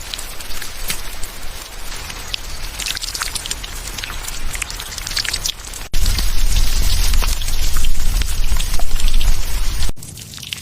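Rain falling, with the sharp ticks of individual drops striking close by. About six seconds in a loud low rumble joins it and cuts off abruptly near the end.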